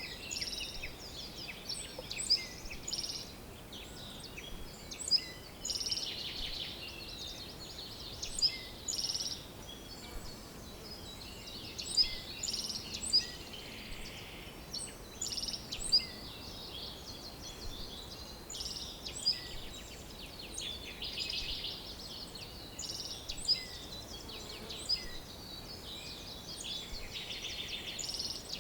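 Birds chirping and trilling: a steady run of short, high calls and brief buzzy trills overlapping one another, over a faint steady hiss.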